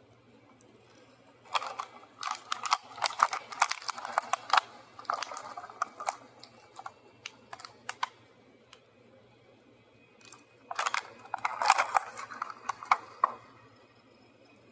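Toy packaging being handled and opened: rapid clicks and crackles of plastic and card. A spell of them begins about a second and a half in, and a second, shorter spell comes near the end.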